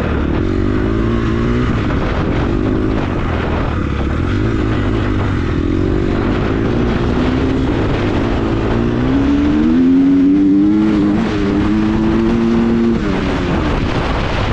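KTM four-stroke dirt bike engine at wide-open throttle, its pitch climbing through the revs several times. It is highest and loudest about ten seconds in, then drops near the end as the throttle comes off.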